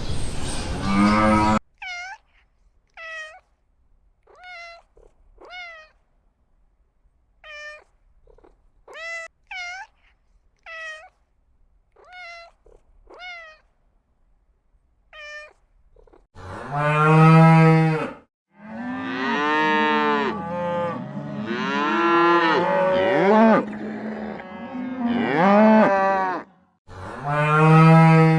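Animal calls: about a dozen short, high cries, each rising and falling, spaced under a second apart, then several long, low, drawn-out calls that overlap one another.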